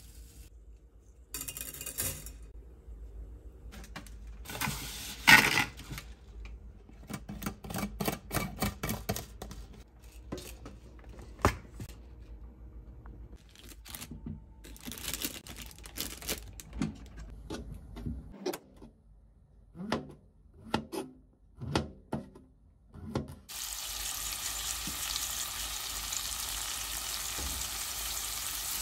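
Kitchen preparation noises: scattered knocks, clicks and rustles as ingredients are unpacked and handled, the sharpest knock about five seconds in. Then, a little over twenty seconds in, a steady sizzle starts as raw chicken thigh pieces fry in hot oil in a frying pan.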